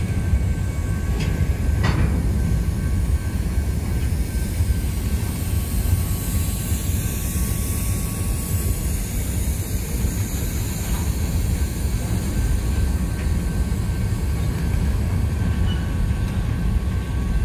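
Union Pacific freight train of covered hopper cars rolling slowly past, a steady low rumble of wheels on rails with a faint steady high squeal. Two short sharp knocks come about one and two seconds in.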